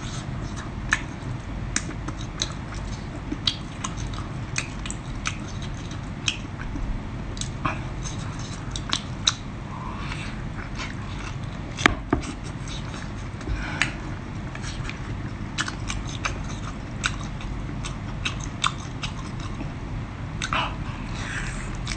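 A person eating close to the microphone: chewing and biting spicy seafood, with many short wet clicks and crunches spread irregularly over a steady low background.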